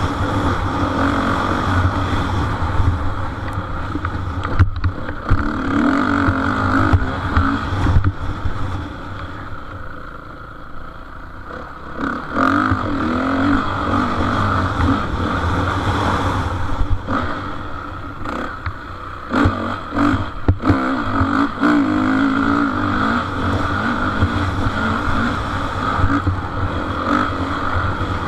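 Motocross motorcycle engines running and revving as the bikes race, the pitch rising and falling with the throttle. The sound eases off for a couple of seconds around the middle, then comes back up.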